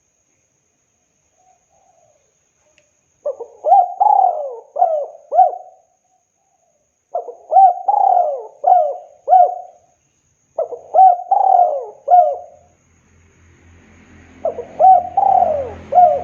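Spotted dove cooing: four phrases of several short notes each, the first about three seconds in and the rest a few seconds apart. A faint low hum comes in under the last phrase.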